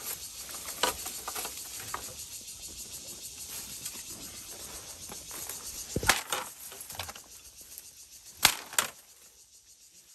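Rustling, with a few sharp cracks or snaps; the two loudest come close together near the end, after which the rustling dies away.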